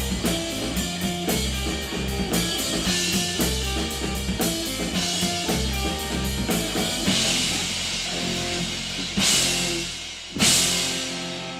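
Live rock band playing an instrumental stretch with drum kit, bass and guitar on a steady beat. Near the end come two big cymbal crashes, the last one left ringing as the song winds down.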